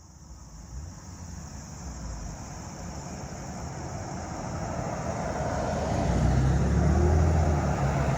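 A car approaching along the road and passing by. Its engine note grows steadily louder, is loudest about six to seven seconds in, and begins to fade near the end.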